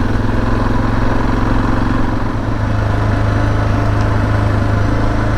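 Suzuki DR650's single-cylinder four-stroke engine running at a steady pace while the motorcycle is ridden.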